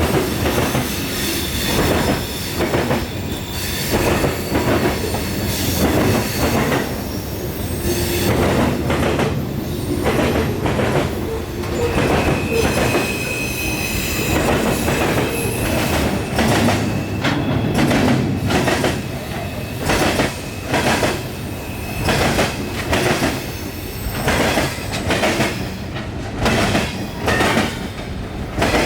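Freight train cars rolling past, their steel wheels clicking over rail joints in a steady run of knocks, with high-pitched wheel squeal; one squeal holds steady for about three seconds midway through.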